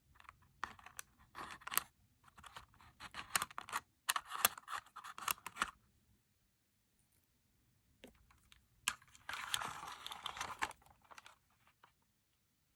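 Slime being squished and stretched by hand, giving sticky crackles and small pops. It comes in two stretches with a quiet pause of about two seconds between them.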